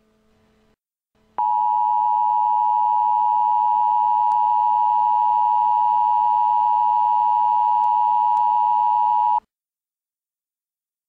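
Emergency Alert System attention tone: a single steady high-pitched tone held for about eight seconds, starting about a second and a half in and cutting off suddenly, over a faint low hum.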